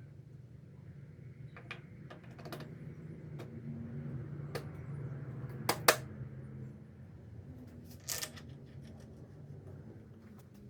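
Scattered light clicks and knocks of hand work on parts, over a steady low hum. A sharp double click about six seconds in is the loudest, and a short clatter follows a little after eight seconds.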